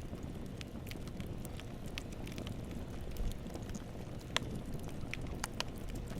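Wood campfire burning: a steady low rumble of flames with scattered sharp crackles and pops, the sharpest pop about four seconds in.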